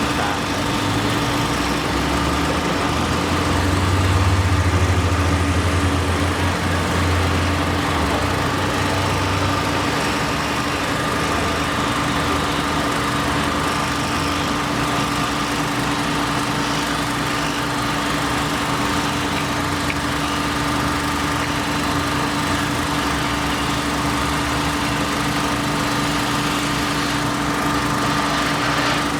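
Construction machinery engine running steadily, with a constant hum and a deeper rumble that swells for several seconds early in the stretch.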